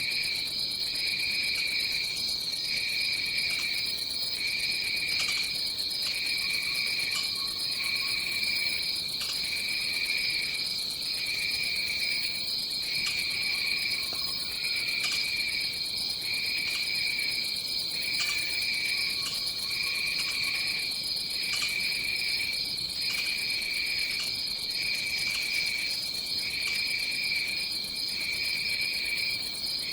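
A chorus of tropical forest insects. One keeps a continuous high drone, while a lower trill switches on and off in a steady rhythm every second or so. Faint lower calls come through a few times.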